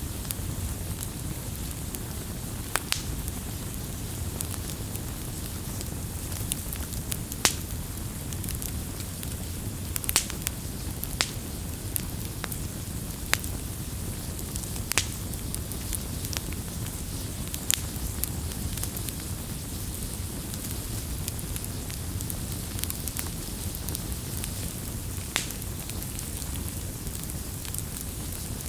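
Wood fire crackling: a steady low rush from the burning wood, with sharp pops every second or few.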